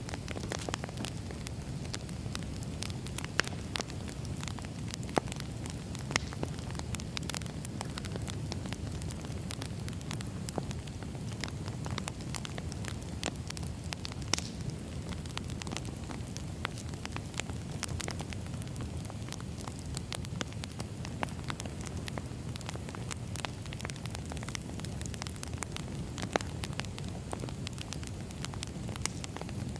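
Crackling campfire: irregular sharp pops and snaps over a steady low rumble of burning wood.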